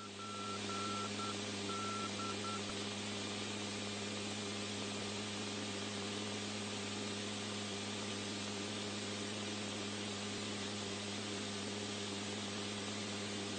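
Steady static hiss with a low electrical hum, with a short run of high beeps in the first two or three seconds.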